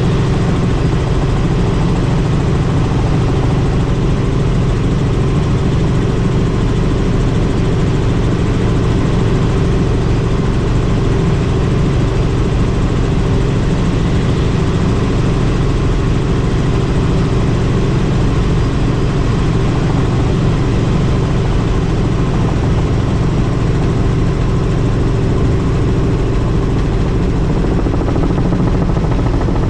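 Helicopter in flight: steady, loud engine and rotor noise with a constant low hum.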